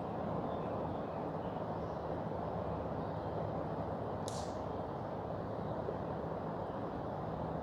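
Mountain river rushing, a steady even noise of flowing water. About four seconds in there is one brief, high, falling sound.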